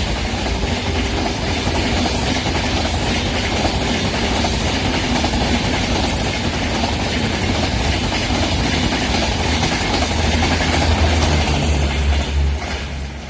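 Train rolling past: a steady, loud rumble of wheels on rails with a regular clickety-clack, dropping away near the end.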